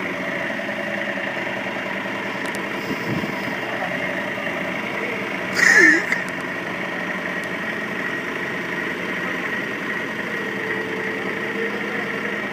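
An engine running steadily at idle, with one brief, louder burst of noise about six seconds in.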